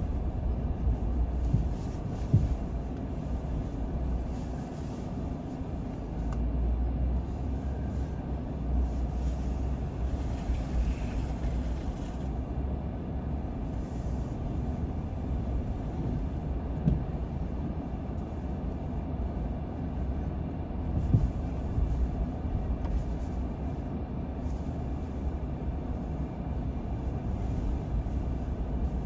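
Car driving along a road: a steady low rumble of engine and road noise, with a few short bumps.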